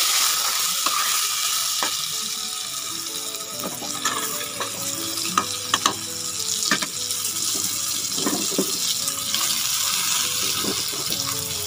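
Potato and brinjal pieces sizzling in hot mustard oil in a steel pan, with a steady hiss and occasional sharp knocks of a spatula against the pan as they are stirred. The sizzle drops somewhat a few seconds in.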